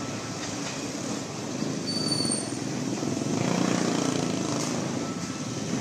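Steady low rumble of a departing Kiha 52 diesel train mixed with city traffic noise, swelling briefly about three and a half seconds in. A short faint high squeal sounds about two seconds in.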